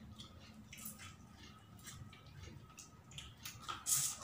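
Close eating sounds: a man chewing and smacking his lips over fried fish and rice, with small wet clicks throughout and a louder smack near the end as he puts another handful into his mouth.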